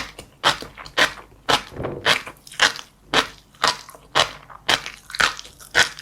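Close-miked chewing of crunchy seeds: a crisp crunch about twice a second, in a steady rhythm.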